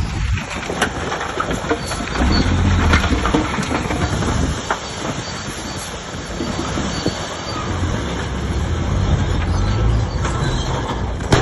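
Crawler bulldozer at work: its diesel engine runs under varying load while the steel tracks clank and squeal.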